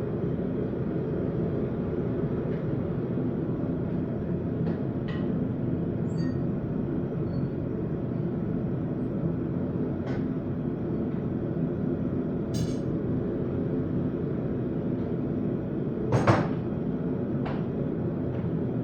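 Blacksmith's forge running with a steady, even roar, and a few scattered metal clinks and knocks; the loudest is a single knock near the end.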